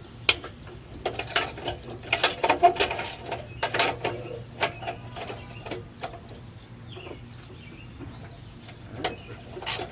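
Irregular metallic clinks, knocks and scrapes of hand tools working on a car's exhaust tip and clamp, bunched in two spells, over a faint low steady hum.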